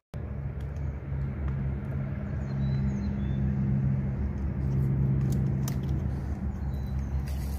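A motor vehicle's engine running with a steady low drone that swells around the middle.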